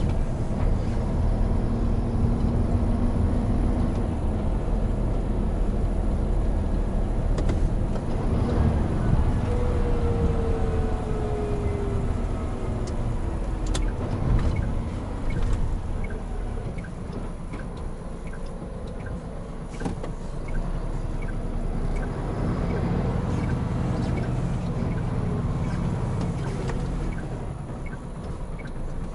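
Hino Profia heavy truck on the move, heard from the cab: the diesel engine runs steadily under tyre and road noise. A falling whine comes about a third of the way in, and a light, regular ticking sounds in the second half.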